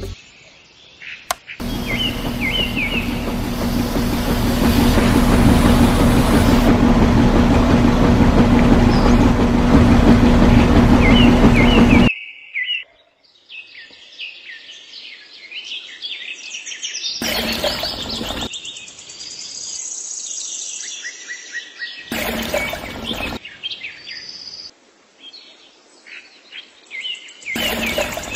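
A loud steady noise with a low hum runs for about ten seconds, then cuts off suddenly. Birds chirp after it, interrupted three times by short bursts of noise.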